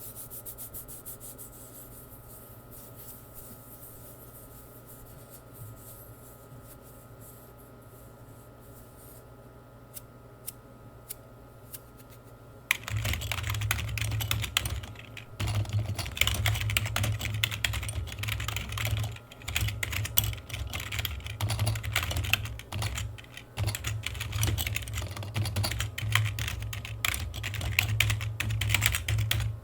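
Typing on a computer keyboard. For roughly the first dozen seconds there are only a few scattered key clicks over quiet room noise, then fast continuous typing starts about thirteen seconds in, broken by short pauses.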